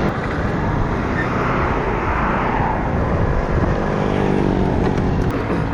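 Motorcycle engine running while riding, with wind and road noise. A louder rushing swell comes about two seconds in.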